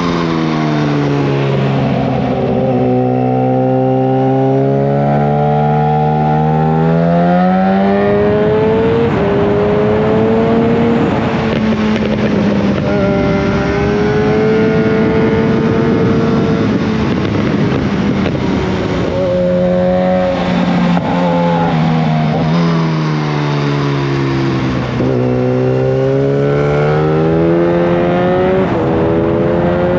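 Yamaha FZ1 Fazer's inline-four engine through a Mivv GP exhaust with the dB killer removed, loud, heard from on the bike while riding. The engine note drops over the first few seconds, climbs again, holds fairly steady through the middle, then falls and rises once more in the last third.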